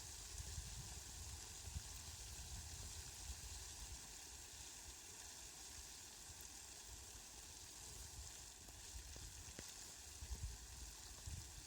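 Steady hiss of rain, with a low rumble that comes and goes.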